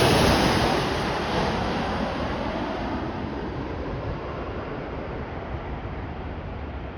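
Jet roar of a Boeing 737 MAX 8's CFM LEAP-1B turbofans fading away after the airliner passes on approach. The high hiss dies off first, leaving a low rumble and wind noise on the microphone.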